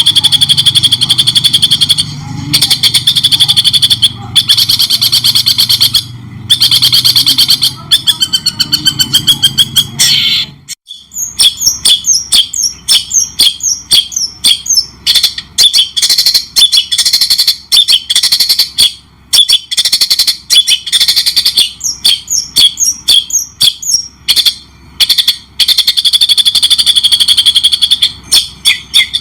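Songbird song from a bird-training (masteran) recording: loud, rapid chirps and trills, some held as fast high trills, repeating with short gaps. About 11 s in the recording cuts abruptly, and the low hum under the first part stops.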